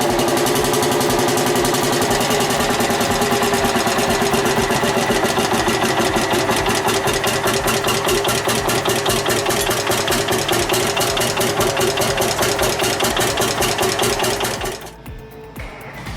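Lanz Bulldog tractor's single-cylinder hot-bulb two-stroke engine running with a fast, even beat of firing strokes. The sound drops away sharply about 15 seconds in.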